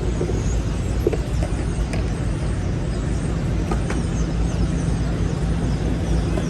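City street traffic: vehicle engines and tyres make a steady low rumble, with a few brief high squeaks over it.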